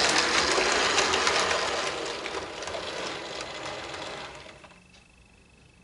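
Model DMU running on its track: the small electric motor whirrs and the wheels clatter and click over the rails, dying away about four and a half seconds in as the train comes to rest. A faint steady high tone follows.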